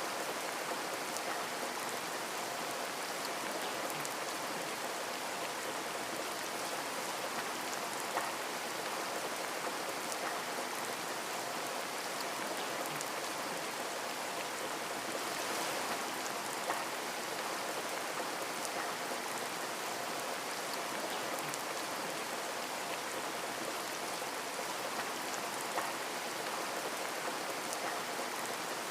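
Steady rain pattering on a window pane, an even hiss with a few louder drop ticks now and then.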